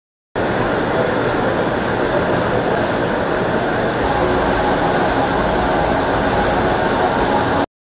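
Steady running noise inside a diesel multiple unit (DMU) commuter train's passenger car. It breaks off for a moment at the start and cuts out suddenly near the end.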